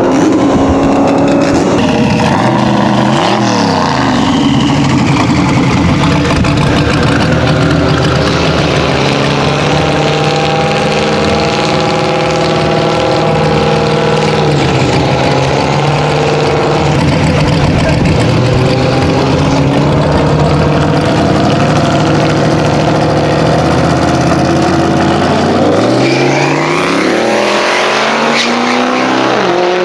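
Car engine running loud and steady, its pitch dropping about three seconds in and again about halfway through, then climbing as it revs up near the end.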